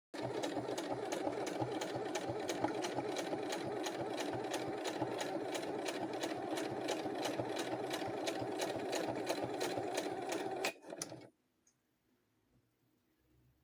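Bernette electric sewing machine running steadily, with an even ticking about four times a second. It starts sharply and stops about eleven seconds in.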